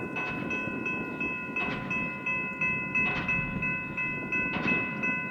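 Diesel pile hammer driving steel H-piles, one heavy stroke about every second and a half. A bell rings steadily over it in quick repeated strokes, with a freight train rumbling underneath.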